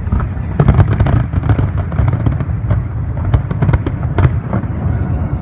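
Fireworks shells bursting in quick succession: many sharp cracks and booms overlapping, several a second, over a continuous low rumble.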